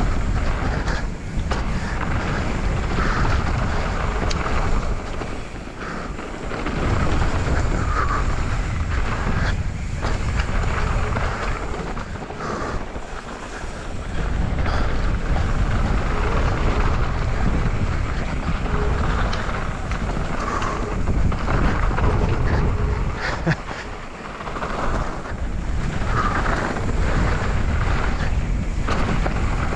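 Wind rushing over a GoPro microphone on a mountain bike riding downhill on a dirt trail, a heavy rumble with the tyres and bike rattling over the ground. The rumble eases briefly a few times.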